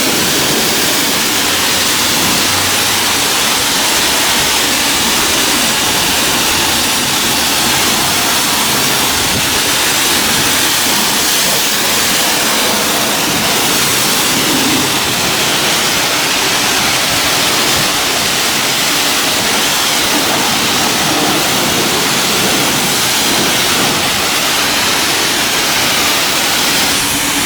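High-pressure rinse wand of a self-serve car wash spraying water onto a vehicle in one steady, unbroken hiss.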